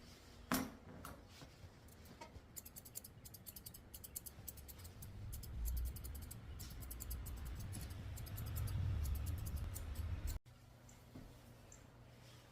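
Grooming scissors snipping through a dog's coat in quick runs of faint, sharp clicks, over low rumbling handling noise that builds and then cuts off suddenly near the end.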